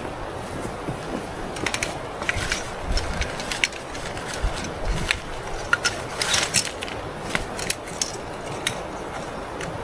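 A steady rush of wind noise with scattered short clicks and crunches of gear being handled, busiest about six seconds in.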